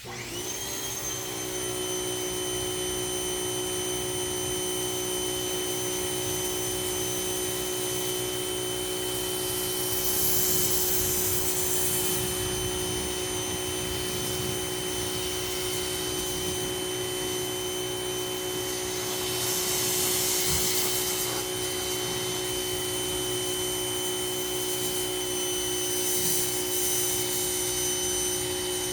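Ryobi 2000 psi pressure washer starting up: its motor and pump spin up within half a second, then run with a steady whine. Louder hissing spray comes through about ten seconds in, again about twenty seconds in, and near the end.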